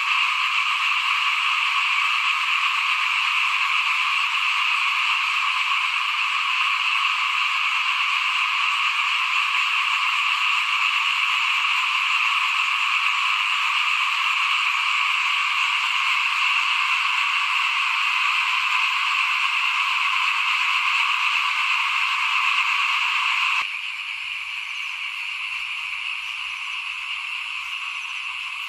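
A dense, steady chorus of many small frogs (เขียด) calling at once. About three-quarters of the way through it abruptly becomes quieter and thinner.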